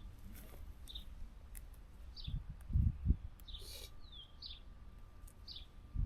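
A songbird repeating a short, high chirp about once a second. A few dull low thumps come around three seconds in, followed by a brief rustle.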